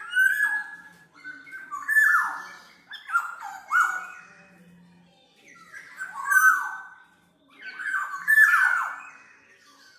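Black-naped oriole (kepodang mas) calling: about five short phrases of loud downward-sweeping notes, each falling in pitch, with short pauses between them.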